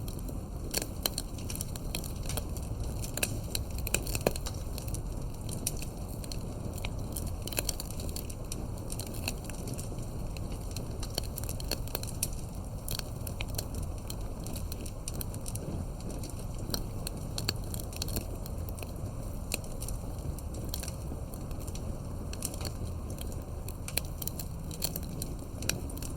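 Campfire burning with frequent irregular crackles and pops over a steady low rumble of the flames.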